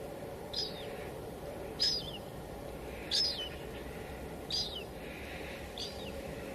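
A bird repeats a short, falling chirp five times, about one every second and a quarter, over a steady hiss of light rain.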